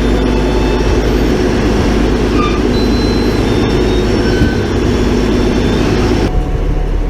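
Heavy vehicle engine running steadily with a dense rumble. About six seconds in it cuts abruptly to a duller version of the same kind of sound.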